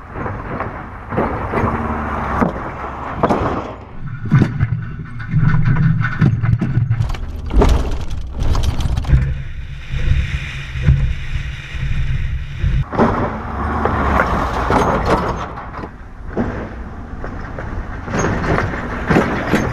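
Ford Super Duty pickup truck running, its engine rumbling and swelling and easing, mixed with frequent sharp knocks and rattles.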